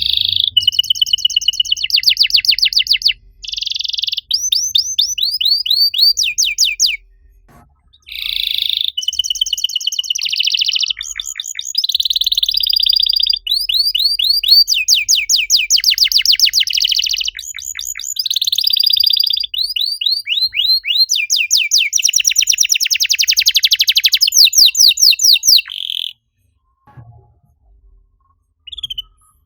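Domestic canary singing a long song of rapid trills and chirp series, with a short break about a quarter of the way in; the song stops a few seconds before the end, leaving only a few faint chirps.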